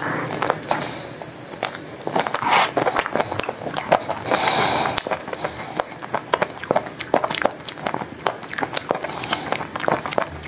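Crunching and chewing of a chocolate-and-nut-coated ice cream bar: the hard chocolate shell cracks in many sharp crackles, thickest about four to five seconds in.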